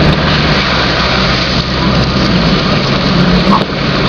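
Car engine running under a steady rushing noise while driving through a flooded street, heard from inside the car.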